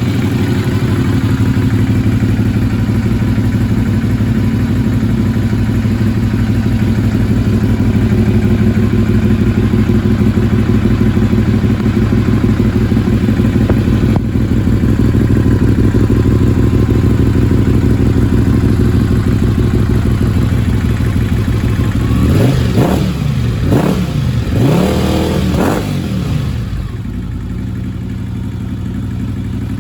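1986 Honda VFR700F V4 running through restored, repacked dual Kerker slip-on mufflers: a steady idle for about twenty seconds, then three quick revs of the throttle, after which it settles back to a slightly quieter idle. Its carburettors are freshly rebuilt but not yet tuned.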